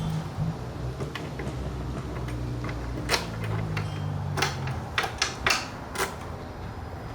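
Plastic motorcycle fairing panels and their fasteners being fitted: about half a dozen sharp clicks and snaps, most in the second half, over a low steady hum.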